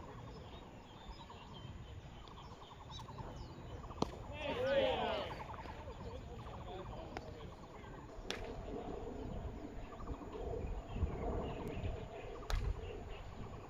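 Players' shouts and calls across a baseball field, strongest about four to five seconds in. Three sharp knocks come roughly four seconds apart over a steady outdoor background.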